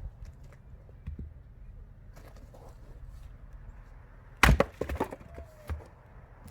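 Firewood being handled: one loud, sharp wooden crack about four and a half seconds in, followed by a few lighter knocks and clatters over the next second, with fainter knocks earlier.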